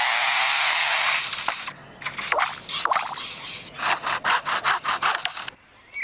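Superb lyrebird mimicking a chainsaw: a steady rasping buzz for the first second and a half or so, then a quick run of choppy rasping strokes that stops about five and a half seconds in.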